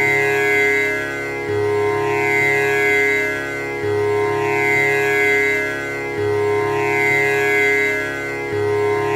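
Tanpura drone: its strings plucked in turn in a steady repeating cycle, the low string coming back about every two and a half seconds, each pluck leaving a long shimmering, buzzing ring.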